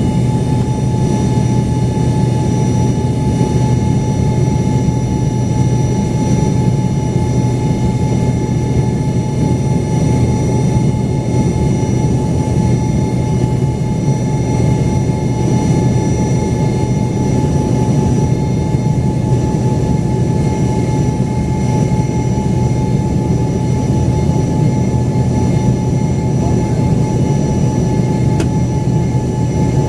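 Steady jet cabin noise inside an Embraer ERJ-135 regional jet: its rear-mounted Rolls-Royce AE 3007 turbofans running at a constant setting, a loud, even drone with steady whining tones over it.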